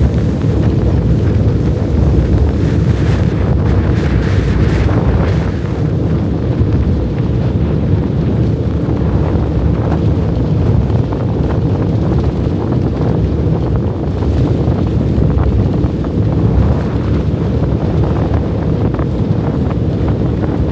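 Strong blizzard wind blasting the microphone in a steady, deep rumble that swells and eases with the gusts.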